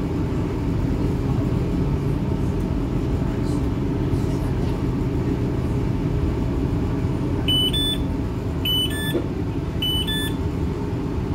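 Inside a stationary NI Railways diesel multiple unit: the steady low hum of its engine idling, with three rising two-note door warning beeps about a second apart, starting a little past halfway.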